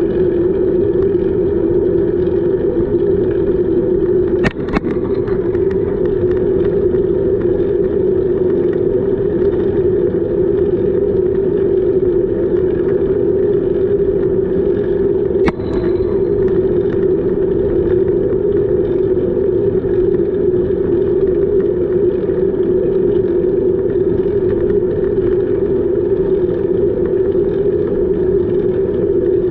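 Steady rushing noise from a camera riding on a moving bicycle, mostly wind on the microphone with tyre noise underneath. Two short clicks come about a third of the way in and again past the middle.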